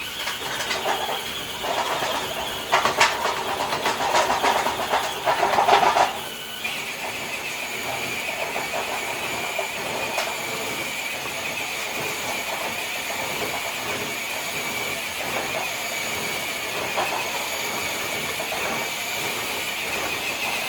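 RC crawler truck's electric motor and gears whining under load as it drags a weighted sled across concrete, with rough scraping and clicking in the first six seconds. About six seconds in the whine drops in pitch and holds steady.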